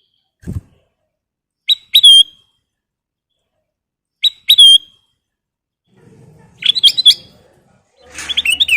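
Kutilang emas bulbul calling loudly: two pairs of short, sharp whistled notes that bend downward, then faster runs of several notes toward the end. A soft low thump about half a second in.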